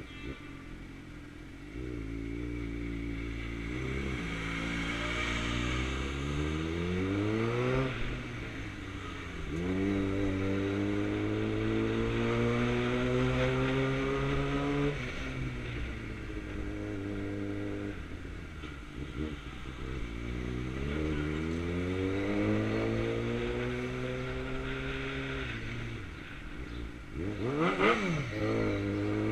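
2009 Suzuki GSX-R600's inline-four engine accelerating through the gears, its pitch climbing steadily and then dropping at each shift. Midway it falls away as the throttle comes off, then pulls up again, with a quick rev blip near the end.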